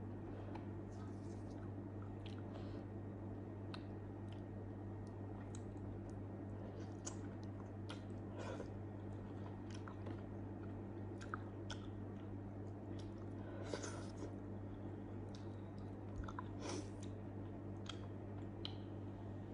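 Close-miked chewing of grilled eggplant: irregular mouth clicks and smacks, a few louder ones now and then, over a steady low hum.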